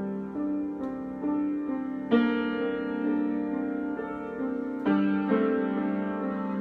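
Solo piano improvisation: slow chords and melody notes struck about once a second and left ringing. There are stronger chords about two seconds in and again near five seconds.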